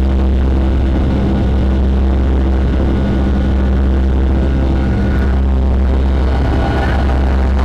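Boeing 757-300 jet engines droning steadily in the cabin during the climb after takeoff, a loud, even roar with a steady low hum and several fixed tones.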